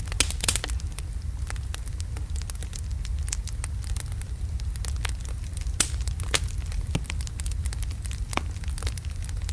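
Wood logs burning in a fireplace: a steady low rumble of the flames with frequent sharp, irregular crackles and pops, a dense cluster of them about half a second in.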